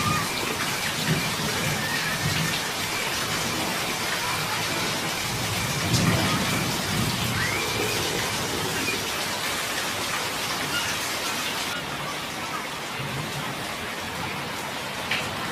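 Heavy rain pouring down onto a concrete street, a dense, steady hiss.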